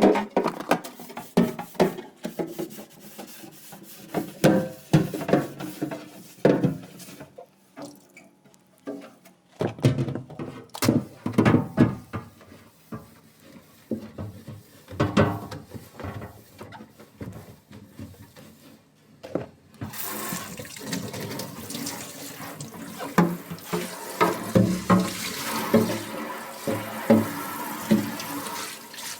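Things being washed in a sink: repeated knocks and clatters as items are handled. About two-thirds of the way through, a tap starts running steadily, with knocking still heard under the stream.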